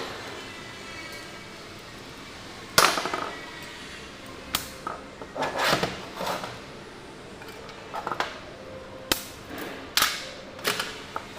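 Metal parts and hand tools clinking and knocking on a workbench: one sharp clank with a brief ring about three seconds in, then a string of lighter irregular clicks and taps.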